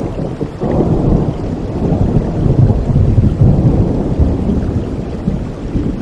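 Thunder rumbling over steady rain. The low rumble swells about a second in, is loudest around the middle, then dies back down.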